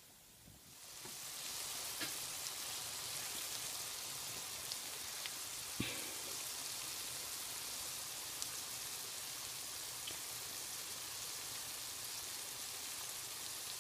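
Imitation crab sticks, spaghetti and vegetables frying in a pan: a steady sizzling hiss that comes in about a second in, with a few small pops.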